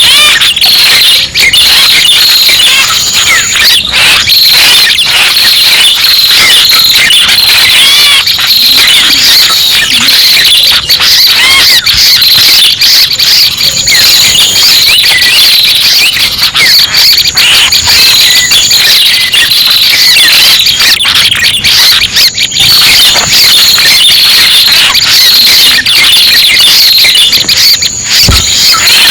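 Loud, continuous chorus of red-headed prenjak (prinia) calls played as a bird-trapping lure track: many quick overlapping chirps and trills with no pause.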